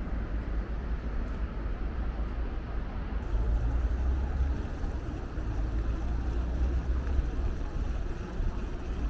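Steady low rumble of city traffic and road noise heard from a moving bicycle, heavy in the bass and swelling slightly a couple of times.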